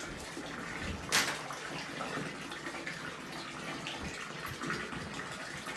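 Water in a bathtub, moved about as clothes are washed in it by hand, with one louder splash about a second in.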